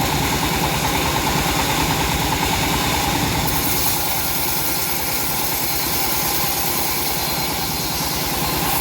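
The engine of a homemade bandsaw sawmill running steadily with an even, fast pulse. A brighter hiss joins it about three and a half seconds in.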